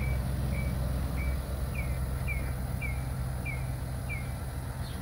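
A bird chirping over and over, one short call about every half second, over a low steady hum.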